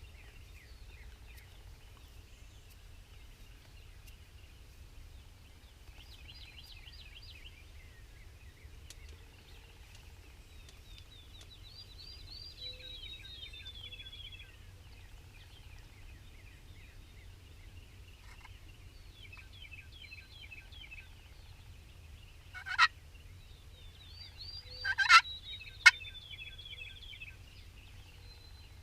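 Wild turkey gobbler gobbling twice near the end, each call loud and short, over songbirds singing steadily.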